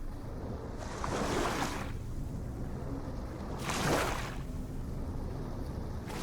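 Ocean waves breaking and washing in: two surging hisses of surf a few seconds apart, a third building near the end, over a steady low rumble.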